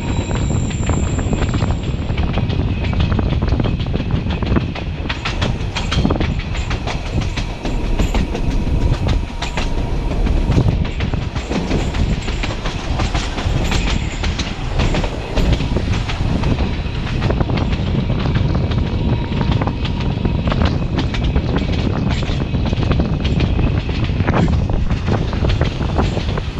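Narrow-gauge (760 mm) train climbing a mountain grade: a steady low rumble of wheels on rail with irregular clattering clicks over the joints. A faint high ringing fades out about two seconds in.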